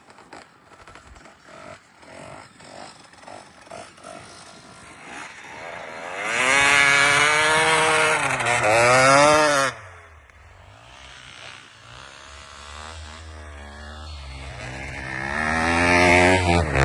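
Motocross bike engine revving: quiet and uneven at first, then revving hard with the pitch rising and falling before dropping off abruptly, then building again to loud revs near the end.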